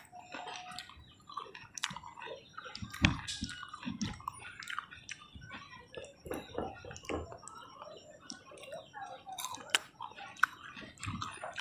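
Close-up chewing of pomelo segments, with irregular small clicks and crackles of the mouth.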